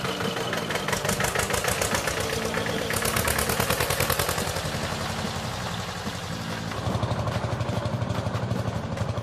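Tractor engine running steadily with an even, rapid chugging beat; it grows heavier and deeper about seven seconds in.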